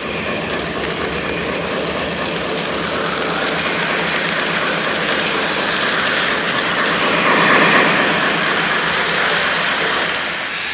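O gauge model train running along the track: a steady rolling rattle with fine clicking, growing louder about seven to eight seconds in.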